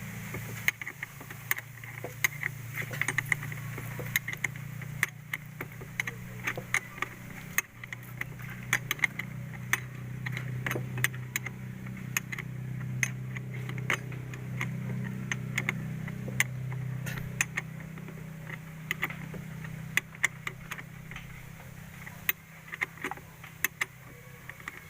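Irregular metallic clicks and clinks of hand tools working on car battery terminals while the battery is reconnected, over a steady low hum.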